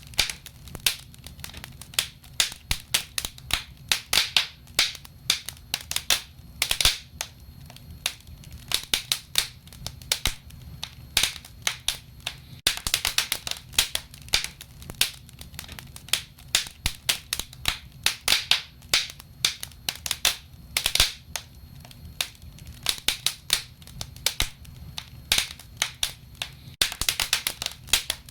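Wood fire burning in a wood stove, with dense, irregular crackles and pops over a low rumble of the flames.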